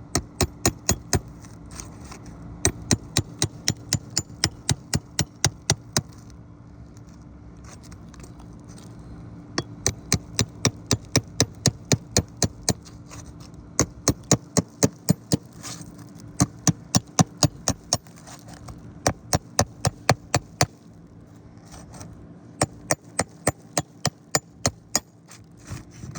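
Hammer blows on a roof in quick runs of about three to four strikes a second, with short pauses between runs, loosening asphalt shingles for removal.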